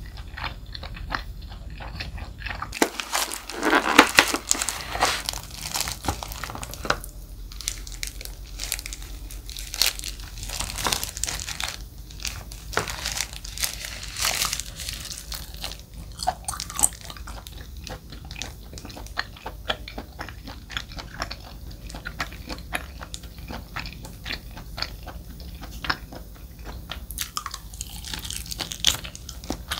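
Close-miked eating of jokbal, Korean braised pig's trotters: steady wet chewing with many small sticky mouth clicks. A louder rustle comes about three seconds in.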